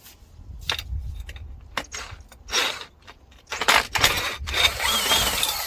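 Metal hand tools clinking and scraping against engine parts during a diesel engine teardown: a few sharp knocks in the first two seconds, then longer stretches of scraping and rattling.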